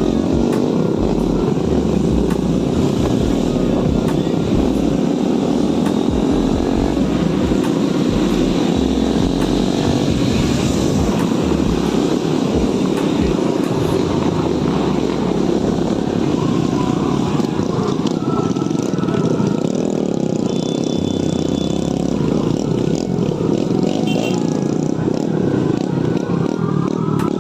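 Motorcycle running steadily on the move during a ride.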